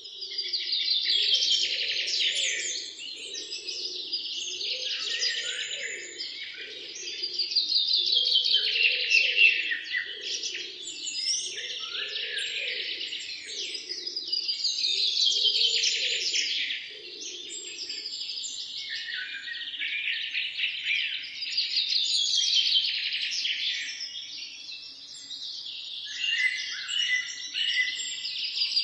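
Small songbirds chattering in a dense run of high chirps and trills, swelling in phrases about every seven seconds, with a fainter, lower warble beneath during the first half.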